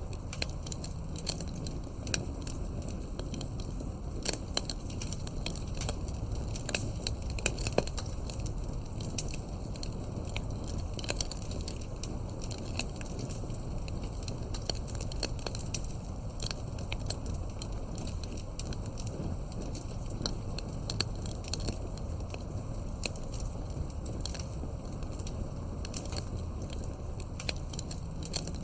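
Campfire burning: wood crackling and popping in irregular sharp snaps over a steady low rush of the flames, with a few louder pops in the first several seconds.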